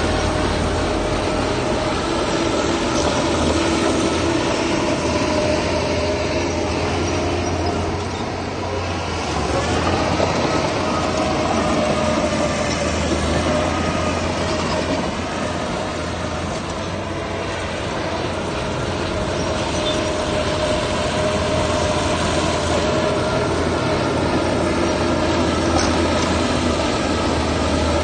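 Crawler bulldozer's diesel engine running under load while its steel tracks clank and squeal. The engine briefly eases and then picks up again, about eight seconds in and again midway through.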